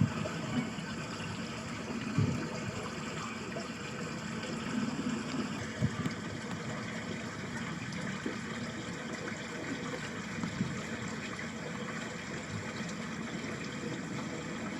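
Water running steadily in a small ditch channel, an even rushing and trickling with no breaks. A few brief low bumps of wind on the microphone come through, at about two, six and ten seconds in.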